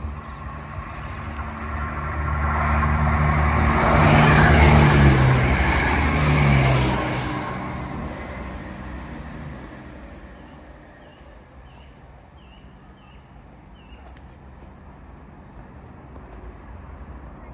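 East Midlands Railway diesel multiple unit passing, its engine drone and wheel noise building to a peak about four to seven seconds in, then dropping in pitch and fading away.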